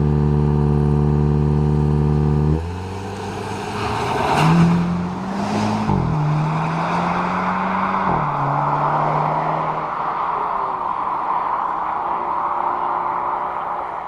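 Hyundai Kona N's turbocharged four-cylinder engine and exhaust: a steady, loud engine note that changes suddenly after about two and a half seconds. The revs then rise and fall, hold, and drop about eight seconds in, under a steady rushing noise that carries on to the end.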